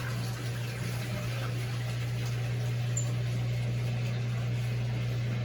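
Mondial Baby BLK20 washing machine's drain pump running with a steady hum as water drains out of the tub.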